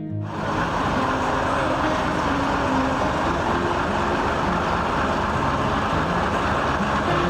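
A motor vehicle running, with steady engine rumble and road noise that cuts in abruptly and holds an even level.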